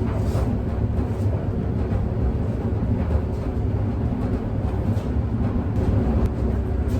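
Laundry machine running with a steady low rumble, a few faint clicks over it.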